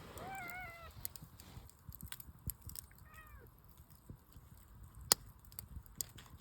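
A hungry cat meows to beg for food: one clear call that rises and falls, then a fainter, shorter meow about three seconds in. Sharp crackles from the campfire come and go throughout, with one loud snap about five seconds in.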